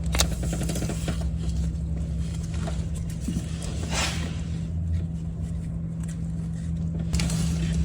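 A steady low hum with a few short metallic clicks and scrapes of hand tools at work on the engine.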